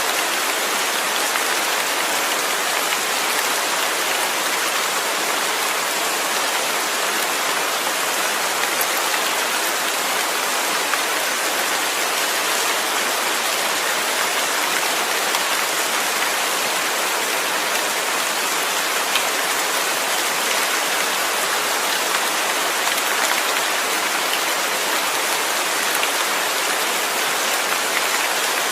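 Steady rain falling, an even hiss of many drops with faint scattered ticks of single drops.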